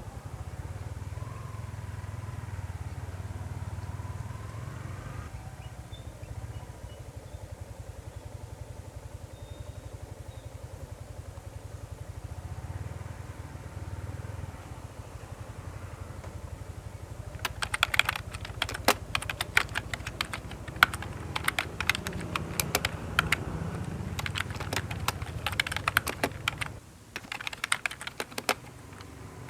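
Steady low hum with no speech. From about halfway on, a quick, irregular run of sharp clicks and clatter from hand tools being worked, as in a shop oil change on a small motorcycle.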